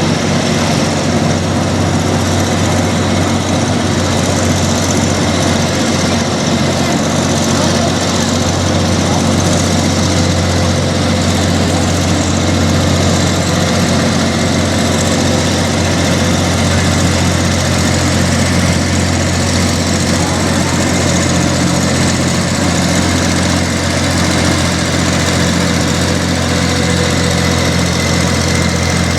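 Case farm tractor's engine running hard at a steady pitch under heavy load as it pulls a weight-transfer sled down the track.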